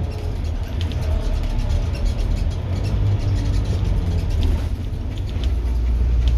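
Scania N230UD double-decker bus's five-cylinder diesel engine running under load, a deep rumble with scattered clicks and rattles; the rumble grows steadier and stronger near the end.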